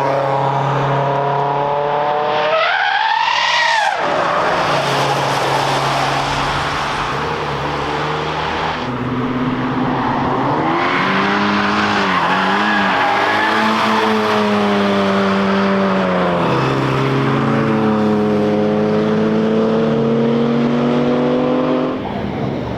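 Cars driving past at speed on a race track, engines revving up and down as they shift gears, with a sharp rising rev about three seconds in.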